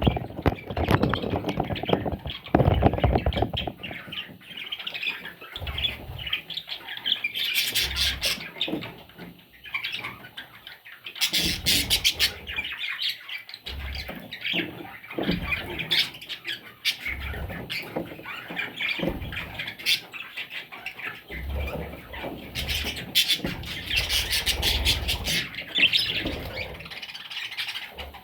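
Budgerigar chicks squawking continuously in rasping, overlapping calls, with occasional short low knocks.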